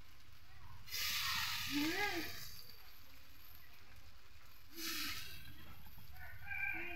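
Batter-coated jute leaves sizzling as they are laid into hot oil in an iron karai. There are two bursts of sizzling, about a second in and about five seconds in, with a low frying hiss between them.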